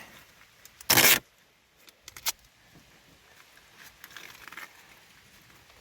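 Tape pulled off the roll in one short, loud rip about a second in, followed by faint crinkling and small clicks as it is wrapped around a hydraulic fitting.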